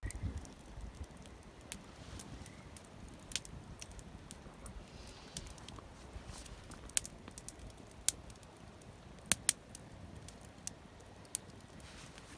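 Wood campfire crackling, with irregular sharp pops, the loudest a few about seven to nine and a half seconds in.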